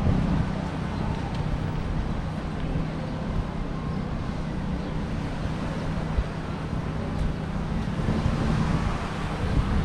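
Wind rumbling on the microphone over steady street traffic, with a constant low engine hum.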